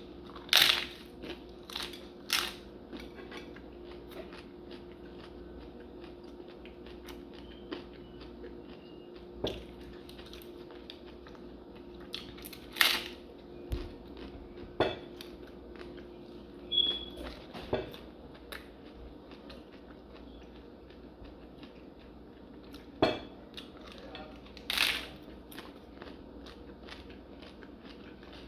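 A taco being bitten into and chewed close to the microphone, with a dozen or so sharp crunches scattered irregularly among quieter chewing.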